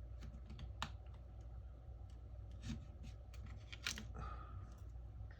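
Light scattered clicks and scrapes of small tools prying at the edge of a cracked phone screen, with a short scratchy scrape about four seconds in, over a steady low hum.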